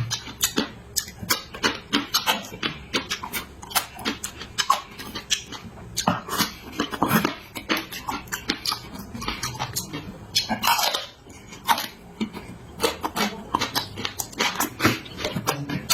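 A person eating close to the microphone: chewing and lip-smacking, with many quick wet clicks and a few longer slurping sounds.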